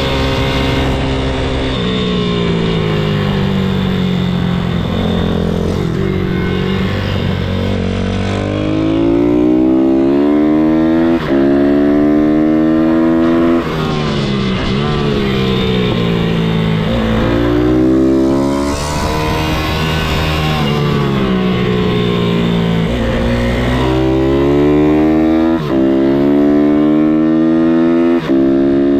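MRF 160-R supermoto pit bike's single-cylinder four-stroke engine at speed, its revs climbing and falling over and over, with a few brief cuts in the sound between climbs, as at gear changes.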